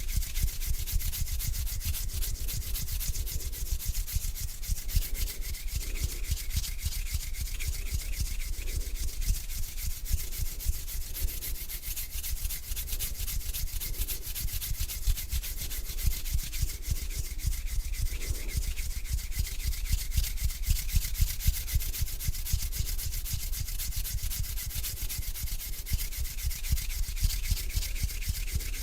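Hands rubbing together slowly and continuously, a steady dry swishing of skin on skin with a fine crackling texture, close to the microphone.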